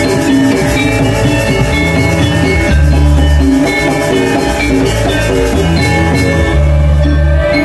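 Balinese gamelan playing: metallophones ringing in dense fast patterns over drums, with a low gong-like tone sounding again every few seconds.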